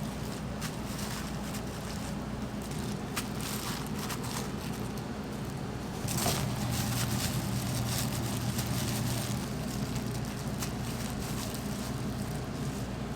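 Restaurant kitchen noise: a steady low hum under light crackling and scattered clicks, getting louder about six seconds in.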